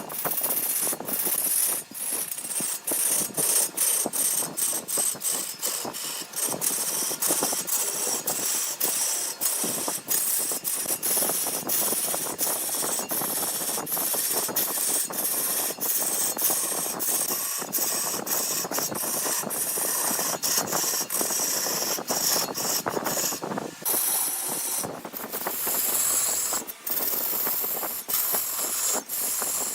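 Wood lathe spinning a workpiece while a hand-held turning tool cuts into it: a steady hissing scrape studded with rapid, irregular clicks.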